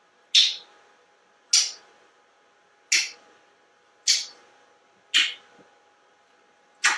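A pet parrot giving short harsh squawks, six of them at a steady pace of about one a second.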